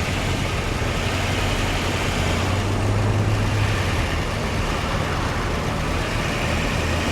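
A motor vehicle's engine idling, a steady low hum, over road traffic noise.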